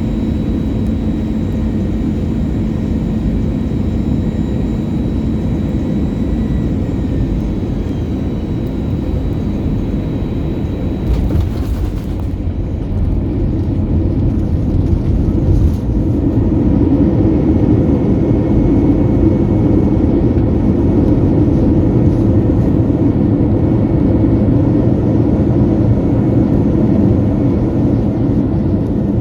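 Cabin noise inside an Airbus A321-200 airliner on final approach and landing, a steady low rumble of engines and airflow. A brief jolt about eleven seconds in marks the main wheels touching down, and from about sixteen seconds the rumble grows louder as the aircraft rolls out, typical of reverse thrust and braking.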